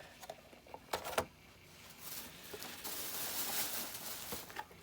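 Handling noises from a packaged diecast model truck being moved about: a couple of sharp clicks about a second in, then rustling for about two seconds.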